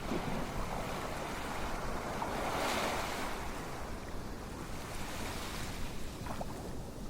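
Ocean surf: a steady wash of waves, with one wave swelling up and breaking a little before the middle, then falling back.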